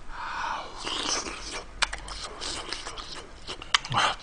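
Close-miked mouth sounds of a person eating a spoonful of hot kimchi stew and rice: a breathy sound near the start, then wet chewing clicks and smacks, with a short low vocal sound about four seconds in.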